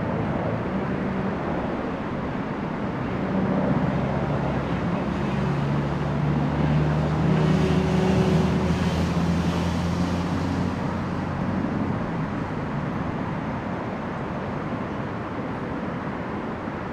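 An engine running with a low steady hum that grows louder to a peak about eight seconds in and then fades, over constant outdoor background noise.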